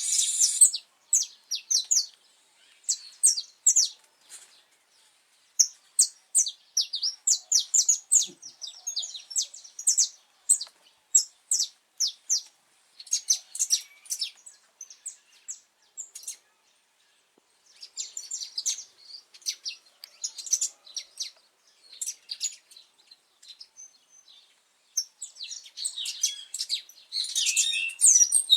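Saffron finch singing: phrases of quick, high chirps and short down-slurred notes, broken by pauses of a second or two.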